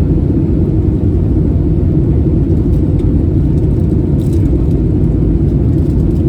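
Steady low rumble of cabin noise inside an Airbus A320neo airliner, unchanging throughout.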